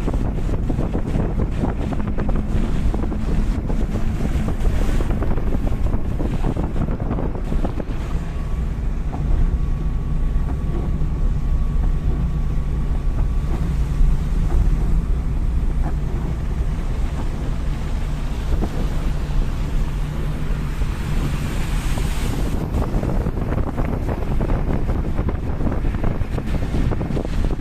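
Heavy rain pouring steadily: a loud, dense hiss of falling drops with a deep rumble underneath that swells briefly near the end.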